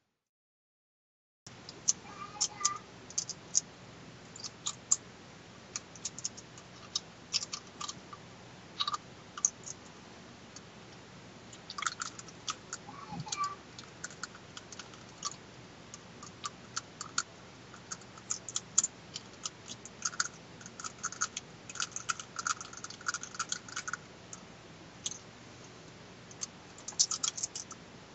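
Irregular sharp clicks and taps in uneven clusters, starting about a second and a half in, over a faint steady hum.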